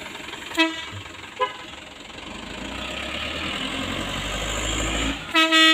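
Vehicle engine running and building up louder over a few seconds as the tow gets under way. A vehicle horn gives two short toots near the start and a quick double honk near the end.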